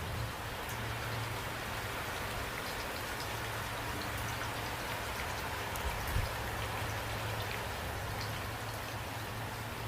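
Steady rain falling, with scattered individual drop ticks and a brief low thump about six seconds in.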